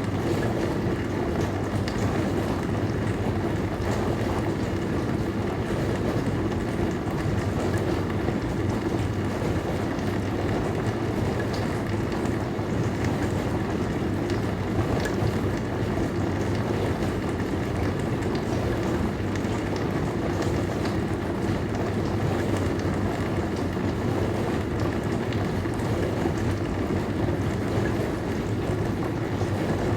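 Dishwasher running: a steady, even rush of water with a low hum underneath.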